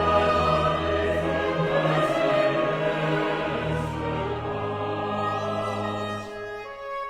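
Choir and Baroque orchestra performing a Baroque choral ode, the full ensemble singing and playing over a low bass line, thinning out near the end.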